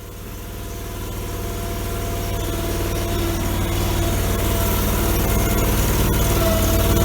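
Allmand tractor-loader-backhoe engine running steadily, growing gradually louder throughout as the machine is driven to test the repaired hydrostatic transmission seal.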